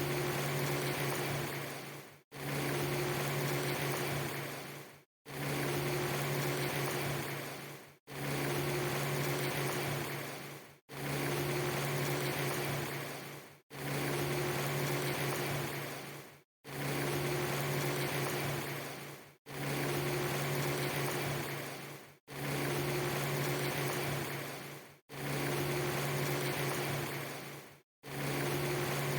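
A steady hiss over a low, even hum, a clip about three seconds long looped again and again, each repeat fading and cutting briefly to silence before the next.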